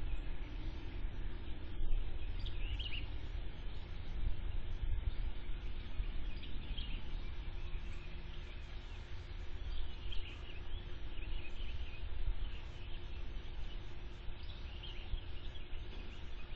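Birds calling now and then, short high chirps a few times, over a steady low rumble and a faint steady hum.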